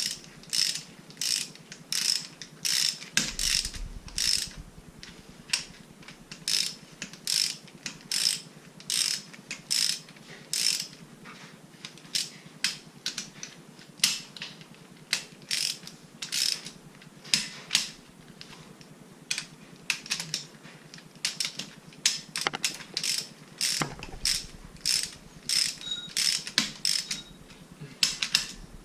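Hand ratchet wrench clicking in repeated short strokes, about one or two a second, as bolts are run down on a rotary engine during reassembly.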